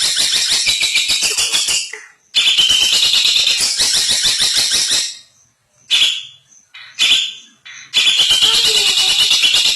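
Long-tailed shrike (cendet) singing a fast, harsh chattering run of rapidly repeated notes, breaking off briefly about two seconds in and again for a few seconds in the middle with only a few short bursts before the song resumes.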